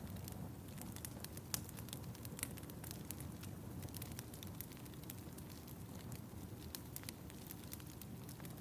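Fire crackling in a fireplace: a low steady rumble of flames under frequent small sharp pops, with one louder pop about a second and a half in.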